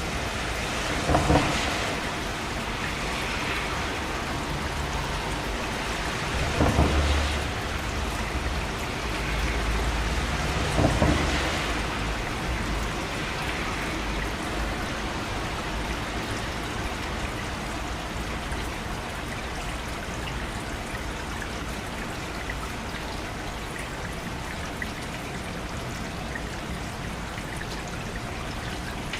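Steady heavy rain, an even hiss throughout, with thunder: three louder peaks in roughly the first twelve seconds and a low rumble between about six and twelve seconds in.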